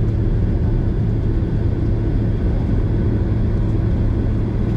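Steady low rumble inside the cabin of a Boeing 767 airliner, with a constant low hum from the engines and airframe.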